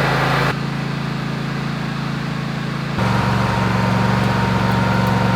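Lawn mower engine running steadily while hooked up to charge a flat car battery; its note changes about half a second in and again about three seconds in.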